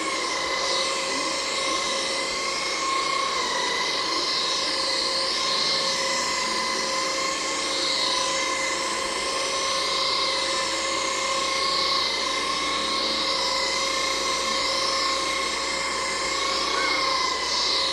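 Electroland Anak cordless stick vacuum cleaner running steadily, a motor whine under the noise of its brush roll, with a hiss that swells and fades about every two seconds.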